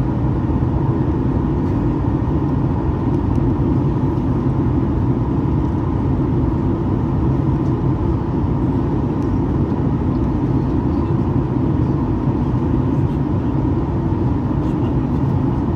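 Steady in-flight cabin noise of a Boeing 737-800 heard from a window seat over the wing: the constant roar of its CFM56 turbofan engines and the airflow, with a steady low hum under it.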